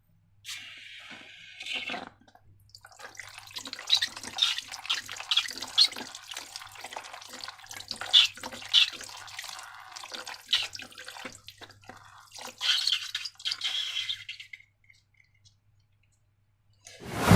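Wet, sticky slime being squeezed and worked by hand, with many small squelching clicks and crackles that stop near the end. A sudden loud burst begins right at the close.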